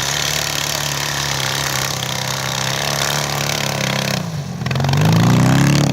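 Heavy flat-twin motorcycle engine running steadily, then easing off for a moment about four seconds in and revving up louder, its pitch rising, near the end.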